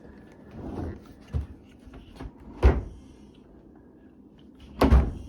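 A dishwasher being pushed and shifted into its cabinet opening: a few separate knocks and thuds, the loudest about two and a half seconds in and another strong one near the end.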